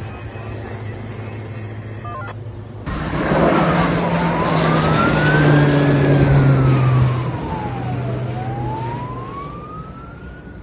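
A steady low engine hum, then, after a cut about three seconds in, an emergency vehicle's siren wailing slowly up and down over a heavy vehicle's engine, loudest in the middle and fading near the end.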